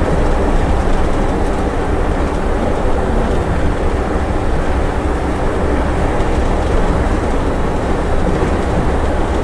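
Scania bus driving along the highway, its engine and road noise running steadily with a strong low rumble, heard from inside the vehicle.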